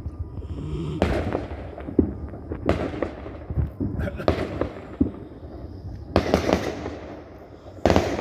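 Fireworks going off: a string of sharp bangs roughly a second apart, some followed by crackling, with a louder burst near the end.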